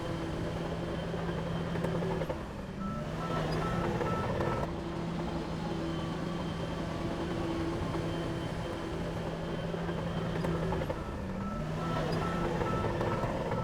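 Heavy diesel machinery engine running steadily. Twice, a shift in engine note is followed by a series of short high beeps, like a reversing alarm.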